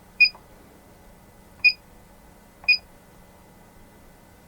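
ITECH IT7321 AC power source's front-panel buzzer giving three short, high key-press beeps at uneven intervals as buttons are pressed.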